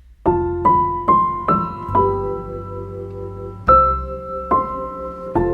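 Background piano music starting about a quarter second in, with a run of rising notes, then held notes and a few further struck notes.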